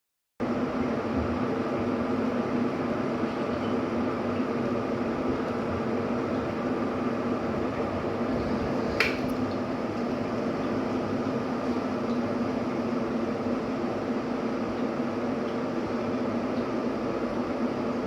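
Electric kettle heating water: a steady noise, with a single sharp click about nine seconds in.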